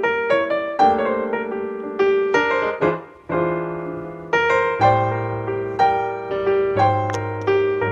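Piano music: a gentle melody of single struck notes over a held bass, with a brief pause about three seconds in.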